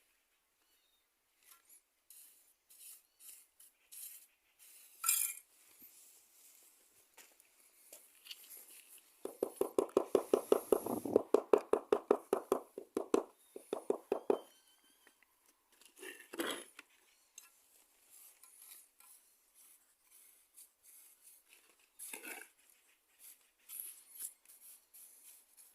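Scattered light clinks and scrapes of hand tools, with a rapid run of tapping, about seven taps a second, lasting about five seconds from roughly nine seconds in.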